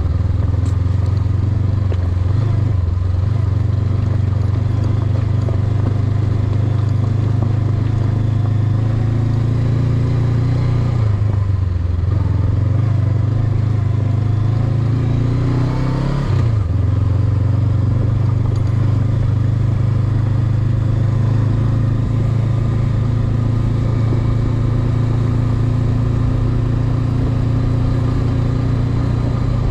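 Honda CB500X's parallel-twin engine running steadily under way. The engine note dips and picks up again twice, about eleven and sixteen seconds in.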